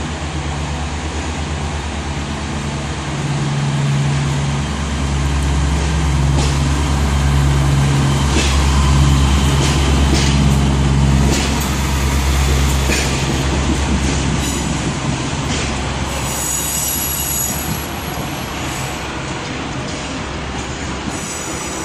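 Class 143 Pacer diesel multiple unit pulling out. Its diesel engine drones steadily, swelling louder in the middle, while the wheels give a few sharp clicks over the rail joints and a faint high squeal near the end.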